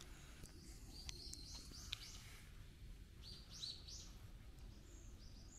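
Faint chirping of small birds in two short runs, one about half a second in and another about three seconds in, over a low steady outdoor rumble. A single sharp click about two seconds in.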